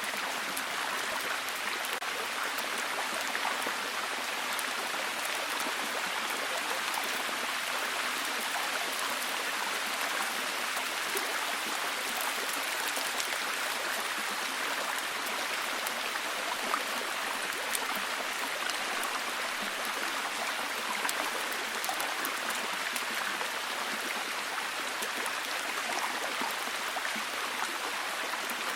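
Steady, heavy rain falling, an even hiss full of fine drop patter.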